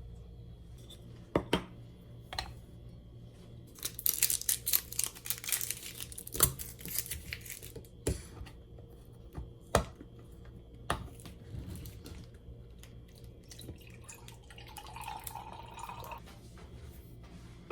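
Kitchen handling noises: a series of sharp knocks and clicks, with a dense burst of crackling in the middle.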